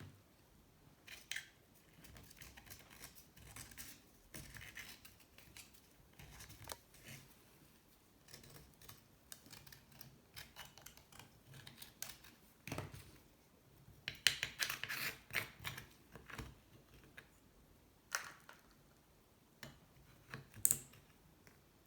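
Irregular scraping and scratching as sludge and corrosion deposits are scraped out of the salt-water-soaked aluminium engine cases of a Honda C70, with a denser run of strokes about two-thirds of the way through.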